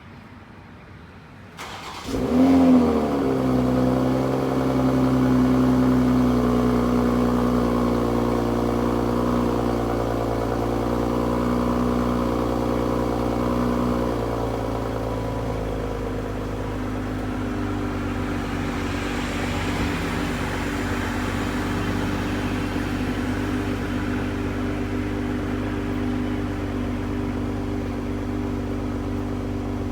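2020 Toyota GR Supra's turbocharged inline-six cold-starting about two seconds in, with a brief flare of revs, then holding a high, steady fast idle that drops a little after about fourteen seconds. The exhaust is plain and undramatic.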